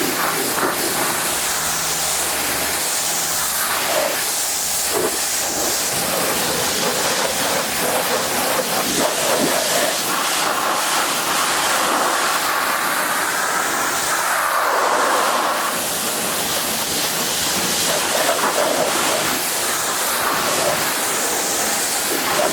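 A loud, steady hiss of noise with no clear pitch, brighter for a few seconds in the middle.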